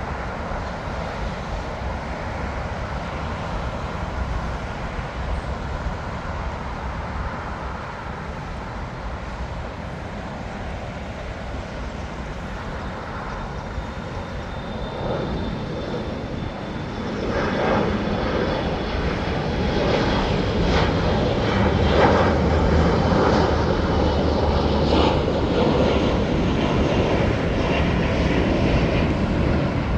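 Jet airliner engines in a steady rush that swells louder a little past halfway, with a faint high whine just before the swell.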